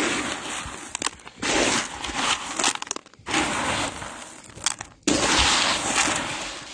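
Footsteps crunching through snow, four slow, heavy steps, each a sharp crunch that trails off.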